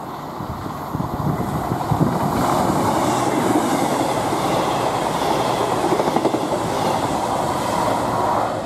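CrossCountry Voyager diesel-electric multiple unit passing close at speed: the rush of the train and its wheels on the rails swells about a second in, stays loud while the cars go by, and drops off near the end.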